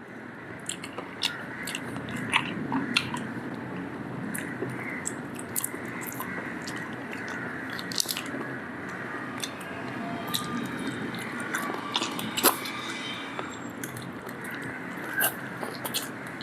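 A person chewing and biting into charcoal-grilled chicken, with many irregular wet clicks and smacks over a steady background hiss.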